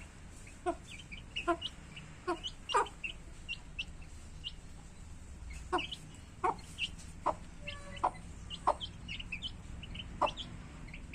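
Hen clucking in short repeated notes about once a second, with chicks peeping in quick high chirps between the clucks.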